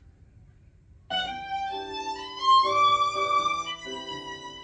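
Recorded music track starting about a second in: a violin playing slow, held notes with other sustained notes sounding beneath it.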